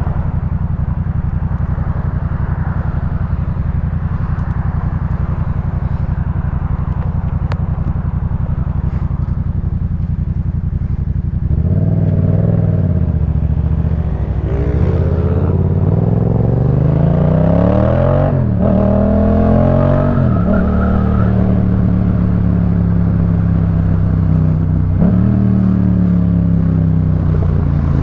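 2018 Yamaha MT-07's 689 cc parallel-twin engine through a Jeskap K4 full aftermarket exhaust: a steady idle for about eleven seconds, then the bike pulls away, revving up with rising pitch, a gear change drop a little past halfway, another climb, and then a steadier higher engine note with one short dip near the end.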